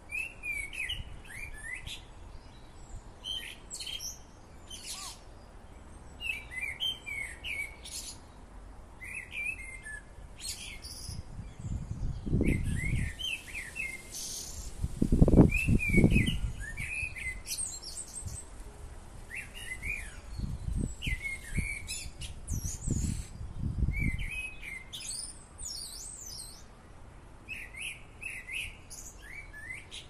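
Small birds chirping over and over, in quick short calls. Low rumbling noise swells up a few times, loudest near the middle.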